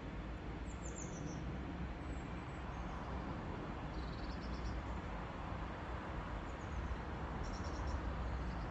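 Small birds chirping in three short bursts of rapid high notes, over a steady outdoor rumble and hiss.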